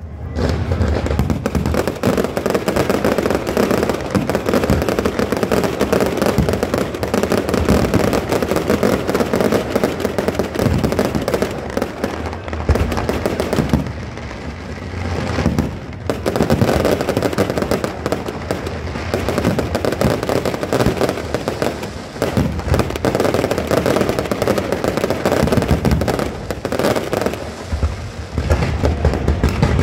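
Fireworks display going off continuously: dense crackling and popping mixed with bangs from many shells, easing briefly about halfway through before building up again.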